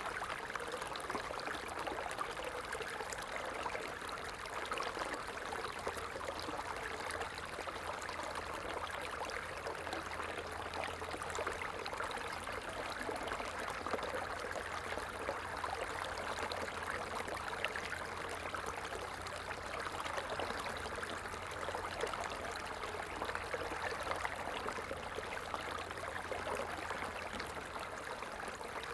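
Stream water flowing steadily, an even, continuous rush and trickle with no breaks.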